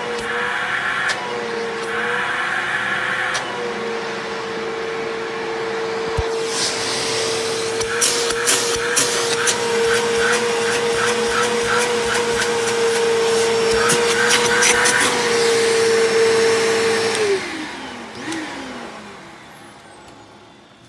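Bissell CleanView upright vacuum running with a steady whine and rapid ticking and crackling through the middle, alongside a slight scratching from the brush roll. About seventeen seconds in it is switched off and the motor winds down, its pitch falling away.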